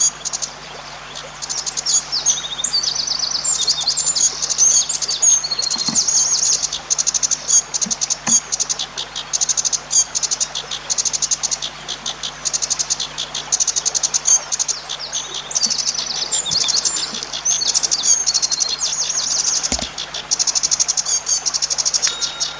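Cici padi (zitting cisticola) singing: long, fast runs of high ticking notes broken by warbling, vibrating phrases, repeated again and again.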